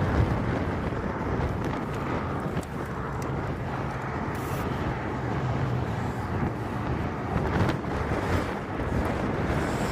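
High wind buffeting the microphone: a steady, gusting rush heavy in the low end.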